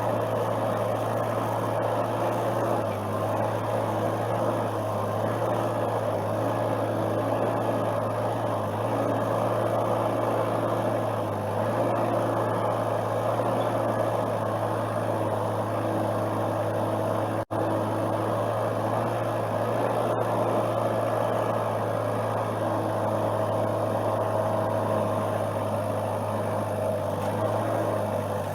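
Excavator's diesel engine running steadily, with a constant low hum and mid-pitched tones that shift slightly as it works.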